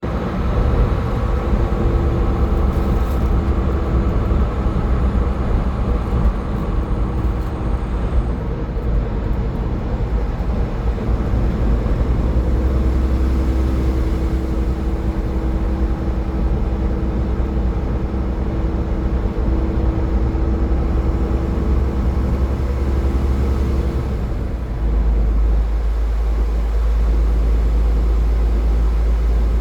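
Car driving at highway speed: steady low road and engine rumble. A faint steady hum runs until about 24 seconds in, after which the noise settles into a smoother, deeper drone.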